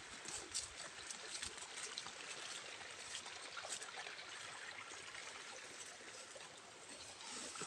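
Faint, steady rush of water with many small scattered ticks.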